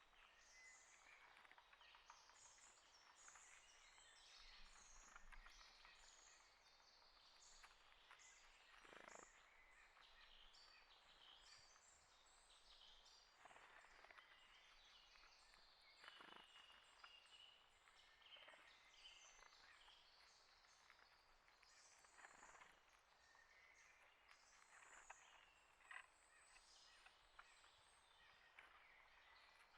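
Faint chirps and short calls of small songbirds, many overlapping and scattered throughout, with a few sharper clicks now and then.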